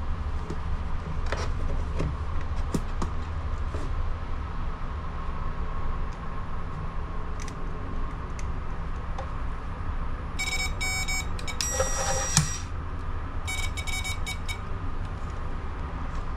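A vehicle's engine idles steadily with a faint hum and scattered small clicks. About ten seconds in come two short runs of rapid electronic beeping, a second or two apart.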